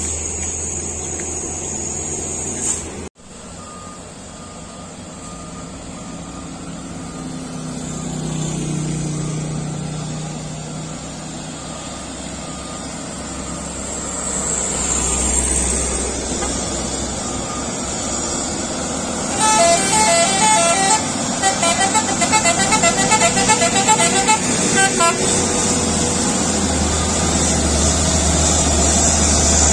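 Heavy truck engine running steadily. About two-thirds of the way through, a multi-tone horn sounds in a rapid, stepping pattern for about five seconds.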